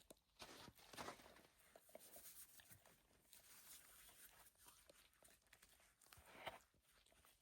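Near silence: room tone with faint, scattered rustles and soft knocks.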